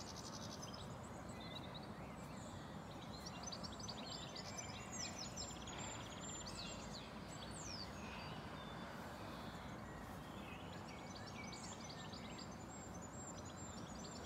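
Small birds chirping and trilling in short phrases over a faint, steady outdoor background rumble.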